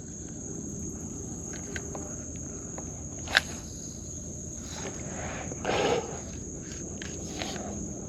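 Insects trilling in one steady, high-pitched drone, with a sharp click about a third of the way in and a brief rustle just past halfway.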